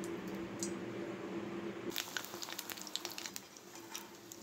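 Besan-coated taro-leaf roll slices frying in hot oil in a kadai: from about two seconds in, a dense, irregular crackle and spatter of sizzling. Before that, a steady low hum.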